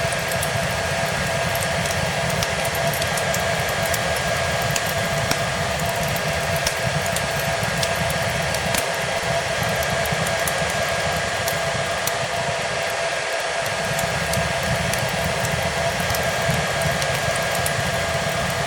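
Hair dryer running steadily, a constant rushing hiss with a steady motor whine, mixed with the light crackle of a wood fire in a fireplace.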